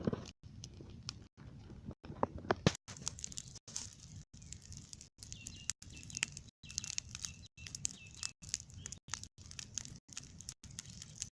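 Small wood-and-debris campfire crackling, with many sharp pops and snaps that get busier after about three seconds. A thin high whistle sounds for about a second near the middle.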